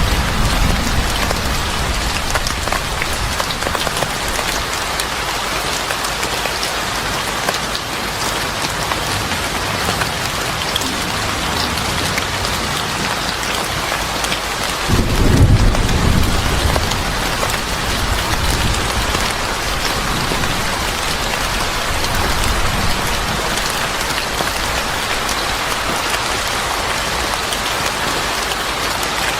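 Steady rain falling, with a low rumble of thunder swelling briefly about halfway through.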